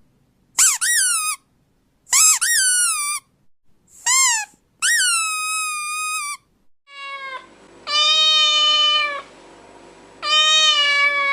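Cat meowing repeatedly. First come short, high meows that rise and then fall in pitch, then two longer, lower meows held at a steady pitch over a faint hum near the end.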